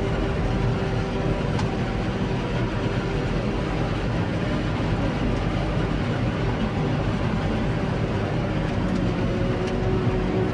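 Steady drone of a tractor and a Claas Jaguar 860 forage harvester working together, filling a trailer with chopped maize.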